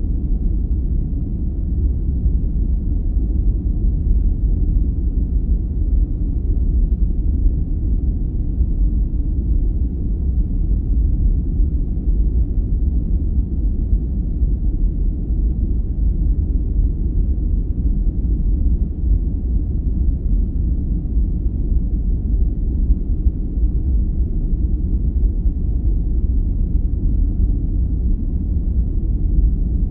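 Sleep-aid white noise: a steady, deep hiss weighted heavily toward the bass, with little treble and no changes or breaks.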